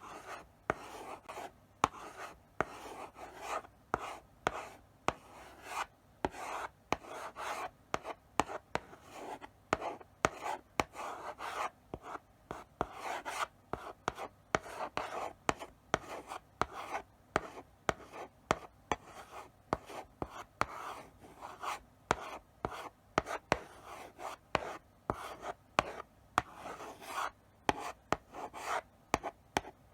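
Chalk writing slowly on a blackboard: a steady run of short scratchy strokes broken by sharp taps as the chalk meets the board to begin new strokes.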